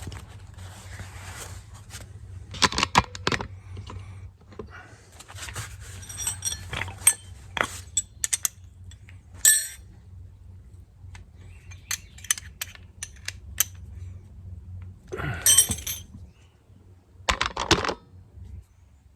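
Small metal parts and hand tools clinking and clattering during carburetor repair work, in scattered clusters of sharp clicks, over a steady low hum.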